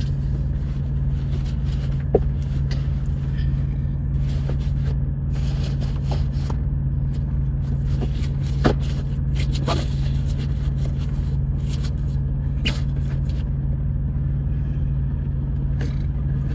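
Steady low hum of an idling truck engine, with scattered rustling, crinkling and taps as a window covering is handled and fitted. Two sharper knocks stand out, one about two seconds in and another about halfway through.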